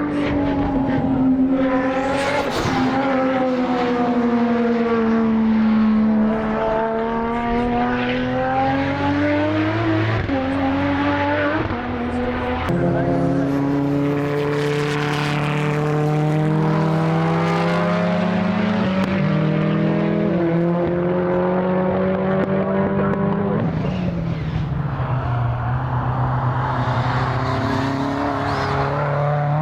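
Race car engines running hard on a circuit, their pitch sliding down and climbing again, with several sudden pitch steps as gears are changed.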